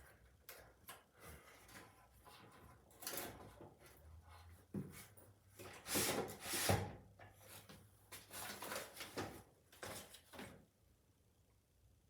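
Milwaukee M18 Rocket tower light being handled: a series of clunks, knocks and sliding scrapes from its carry handle and legs being worked, loudest a little past halfway, stopping about ten seconds in.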